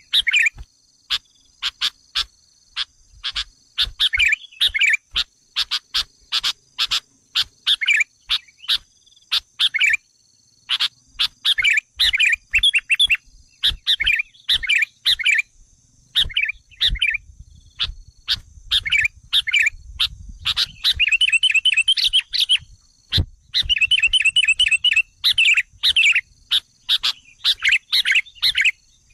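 Sooty-headed bulbuls calling agitatedly: a dense run of short sharp chirps and whistled notes, turning to fast chattering trills past the middle, the excited calling used to lure wild bulbuls. A faint steady high whine, like insects, runs underneath.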